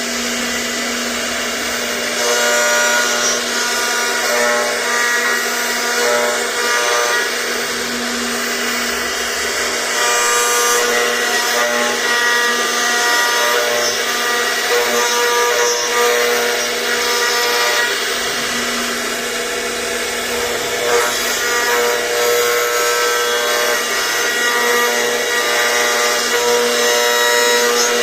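CNC router spindle running steadily with a constant whine while its bit cuts, carving a 3D name.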